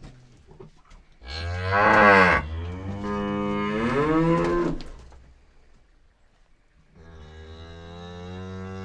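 A cow mooing twice: a loud moo about a second in whose pitch dips and then rises, and after a pause of about two seconds a second, steadier moo that is still going at the end.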